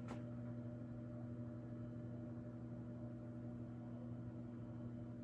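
Casablanca Lady Delta ceiling fan running, giving a steady low electrical motor hum.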